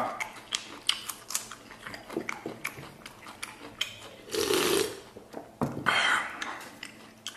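Close-up chewing of a raw garlic clove, a run of small crisp crunches and wet mouth clicks. About four seconds in comes a louder stretch of gulping from a drink can, and shortly after another short loud sound as the can comes down from the mouth.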